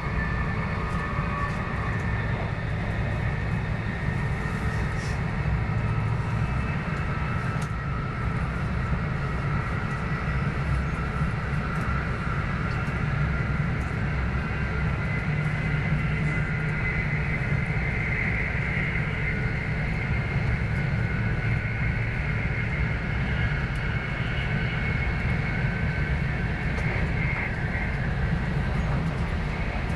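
Steady running noise heard inside a Max Toki double-decker Shinkansen carriage at speed: a low rumble from the wheels and track, with a faint high whine that wavers slightly in pitch.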